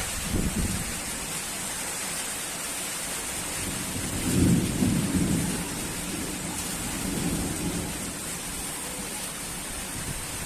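Monsoon thunderstorm: steady rain hissing, with rolls of thunder rumbling low, the loudest about four seconds in and a weaker one around seven seconds.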